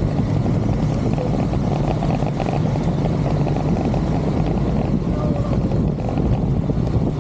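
Motorcycle engine running steadily, with wind rushing over the microphone.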